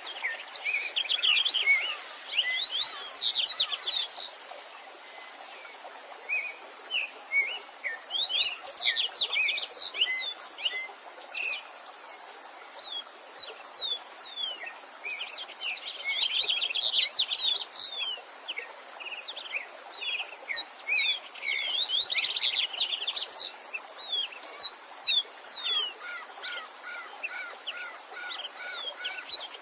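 Songbirds singing in bursts of quick, high, downward-sweeping notes, a new phrase every few seconds, over the steady faint rush of a stream.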